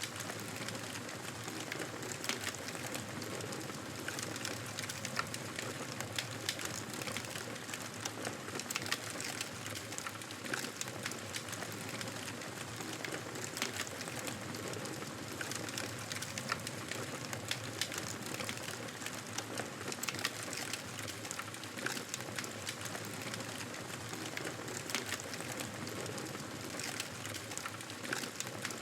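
Wood fire burning in a fireplace: a steady hiss of flames with frequent small crackles and pops scattered irregularly throughout.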